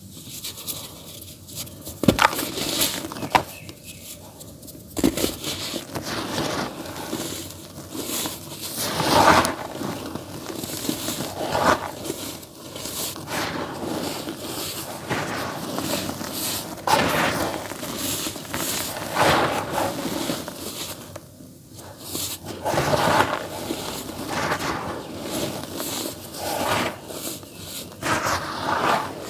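Dry, earthy dirt being crumbled in a tub: irregular gritty crunching and crackling, with a few sharp snaps as pieces break, the first about two seconds in.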